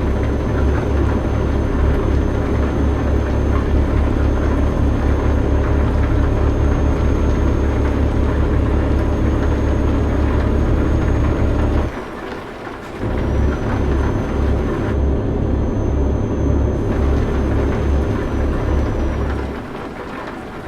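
Semi-truck engine running with a steady, deep, pulsing drone and a faint high whine above it. The sound drops out for about a second about two-thirds of the way through, then resumes, and dips again near the end.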